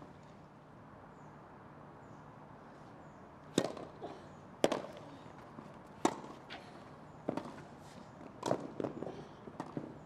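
Tennis rally: racket strikes the ball five times, a little over a second apart, with fainter clicks between the hits.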